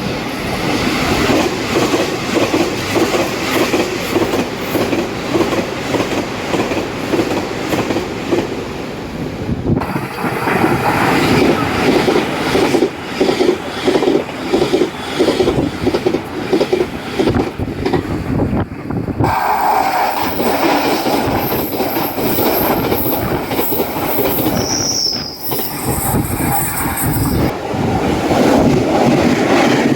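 Taiwan Railway trains passing at speed, their wheels clattering in a fast clickety-clack over the rail joints. Three passes follow one another, with sudden cuts about a third and two thirds of the way through.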